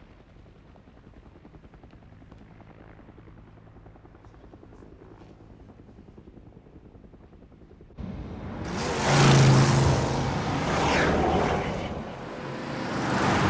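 A faint steady engine drone with a rapid flutter, then about eight seconds in an abrupt cut to much louder engine and rushing noise.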